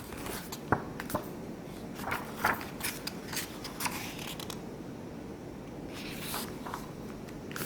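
Paper rustling and light clicks of a picture book being handled and its pages turned, scattered through the pause, over a low steady room hiss.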